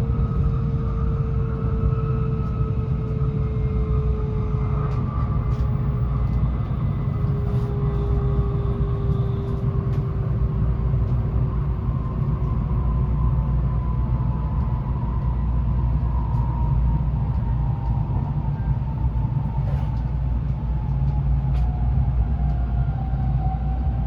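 Tokaido Shinkansen N700A train running, heard from inside the passenger car: a steady low rumble with a faint whine that falls slowly in pitch as the train slows for its station stop.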